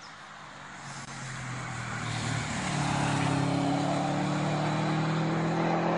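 Subaru Impreza WRX STI track car's turbocharged flat-four engine approaching from a distance, growing louder over the first three seconds and then holding a steady note.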